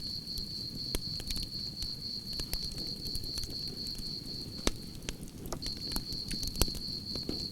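Campfire crackling and popping over a low steady rush of flame, with a few louder pops past the middle. Crickets chirp in a continuous high trill that drops out for about half a second.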